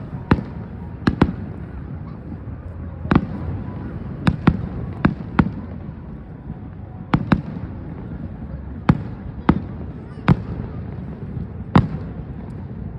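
Fireworks display: about fifteen sharp bangs of shells bursting at irregular intervals, some in quick pairs, over a continuous low rumble.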